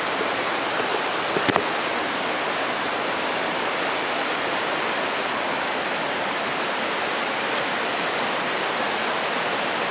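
Steady rushing of a river's rapids and falls, heard from above, with one brief click about one and a half seconds in.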